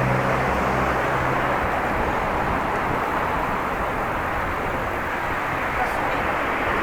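Steady rush of wind over the microphone of a camera carried while cycling on a road, with a low steady hum in the first second and a half.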